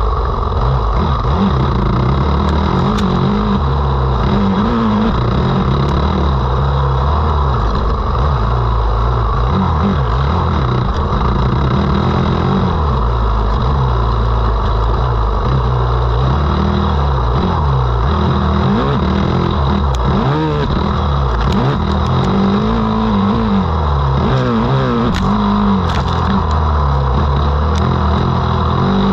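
Motocross dirt bike engine revving up and down continuously as it is ridden hard, the pitch rising and falling with each throttle change and shift.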